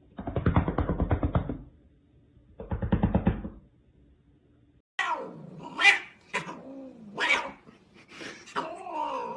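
A cat meowing several times, each call sliding down in pitch, preceded by two short, rough, rapidly pulsing sounds.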